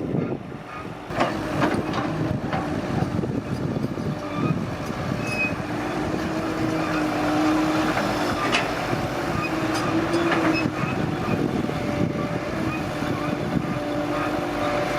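Excavator diesel engine running steadily under load, with several sharp metallic clanks from the bucket and arm.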